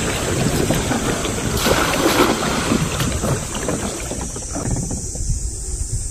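Water splashing and trickling, with wind rumbling on the microphone. About four and a half seconds in the splashing and hiss fall away, leaving mostly the low rumble.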